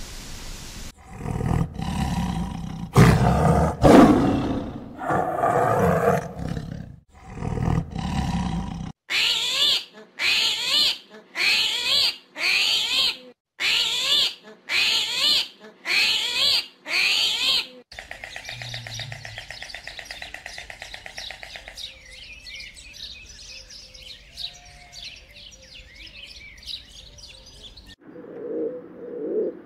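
A run of different animal calls. First several seconds of loud, low, rough roar-like calls; then nine short calls about one a second; then a quieter stretch of high chirping. Near the end, rock pigeons begin cooing.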